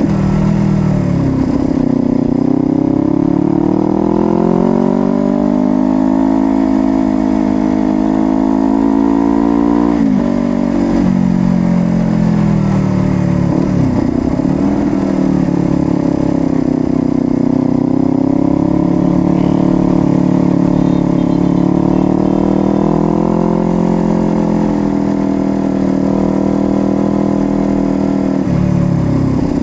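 Honda CBR250RR motorcycle engine under way: the revs climb steadily for about eight seconds, drop sharply about ten seconds in, dip briefly a few seconds later, then hold a fairly steady cruise with gentle rises and falls.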